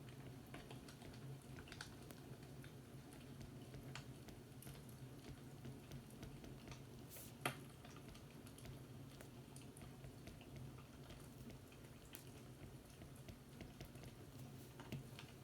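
Faint fireplace crackle: scattered small pops and snaps over a low steady hum, with one sharper pop about halfway through.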